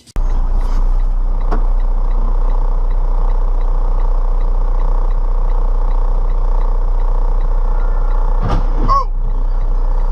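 A car on the move, heard from inside: steady road and engine noise with a strong low rumble. A brief sharp knock and a short falling squeal come near the end.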